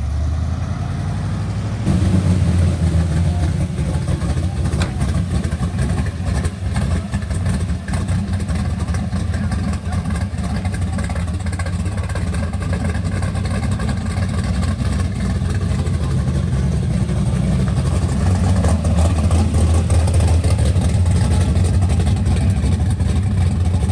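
A car engine running with a steady low note, which gets louder about two seconds in and again a little louder later on.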